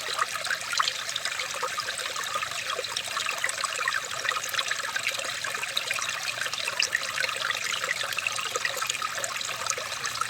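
Water trickling steadily in a small stream, a continuous flow dotted with many small splashes.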